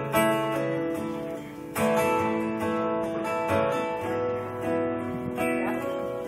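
Acoustic guitar strumming chords and letting them ring, a new chord struck about every two seconds, as the instrumental close of a song after the last sung line.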